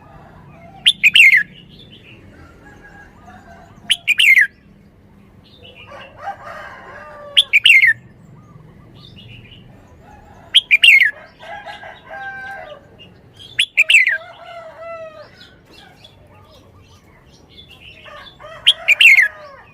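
Red-whiskered bulbul singing: six loud, short phrases that each sweep quickly downward, a few seconds apart, with softer warbling between them.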